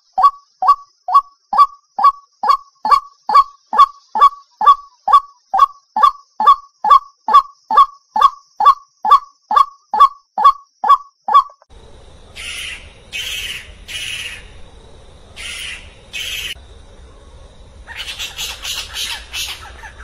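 White-breasted waterhen calling a monotonous run of short, downward-dipping calls, about two a second, which stops abruptly about twelve seconds in. It is followed by harsh, scratchy screeches in short bursts from a spotted owlet.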